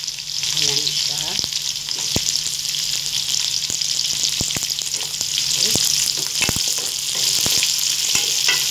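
Chopped onions and garlic sizzling in hot oil in a metal wok, with a steady hiss, while a wooden spatula stirs them, scraping and knocking against the pan in scattered sharp clicks.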